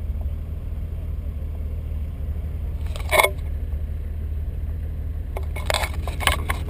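Car engine idling, heard from inside the cabin as a steady low rumble. A short clatter comes about halfway, and a quick run of clicks and knocks near the end as the camera is handled and fitted to its mount.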